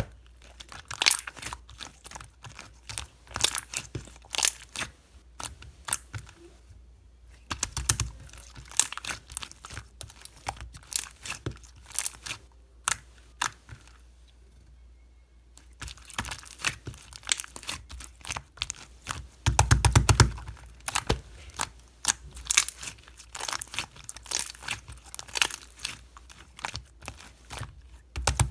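Clear slime being pressed, stretched and poked by hand, giving off irregular crackles and sharp popping clicks as air pockets burst, with a quieter pause in the middle and a couple of dull thuds.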